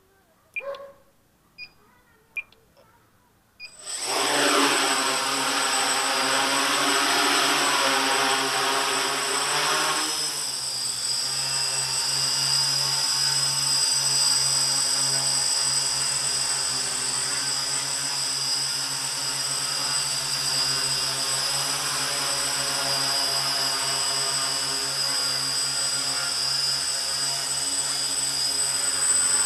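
X666 quadcopter's electric motors and propellers, quiet for the first few seconds apart from a few short clicks. About four seconds in they spin up sharply to a loud, steady high whine and buzz as the drone lifts off and hovers. The tone shifts slightly lower about ten seconds in.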